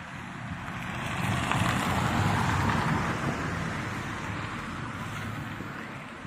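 A road vehicle passing close by: tyre and engine noise swells to a peak about two seconds in, then fades away.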